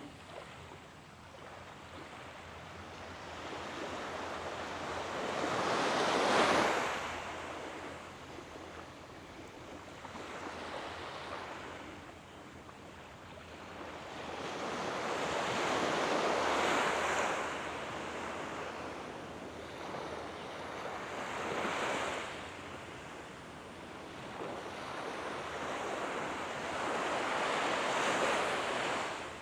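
Waves washing up on a sandy beach, a hiss that swells and fades four times, loudest about six seconds in.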